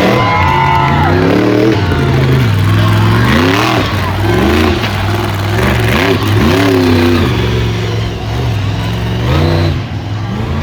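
Monster truck engine revving hard, its pitch sweeping up and falling back over and over, about six times, over a steady low drone.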